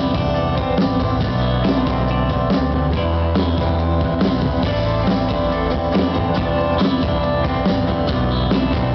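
Live rock band playing an instrumental passage between sung lines: electric guitars over a steady drum-kit beat and bass.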